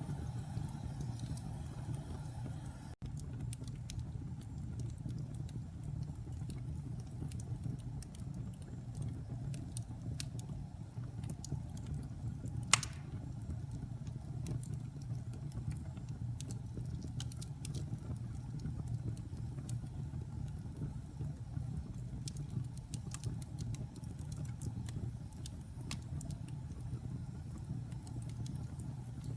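Wood fire burning in a fireplace: a steady low roar with scattered small crackles and one loud pop near the middle.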